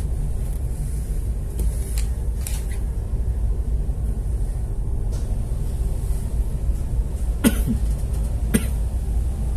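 Steady low rumble of a boat's engine heard on board, with a few short sharp knocks or coughs, two of them close together near the end.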